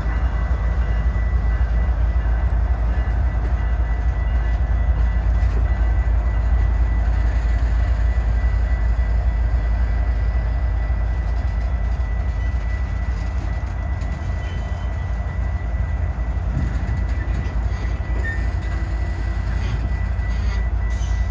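Freight cars of a manifest train, refrigerated boxcars and covered hoppers, rolling slowly past: a steady rumble and rattle of wheels on rail, with a thin, steady high tone throughout.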